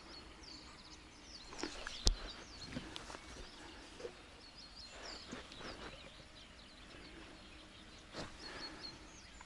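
Small birds chirping in many short high calls, over the rustle of footsteps through dry grass. A single sharp knock sounds about two seconds in.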